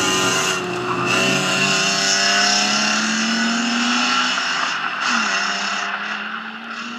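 BMW 320 race car's engine revving hard under acceleration, its note climbing for about four seconds, then falling back and holding steady.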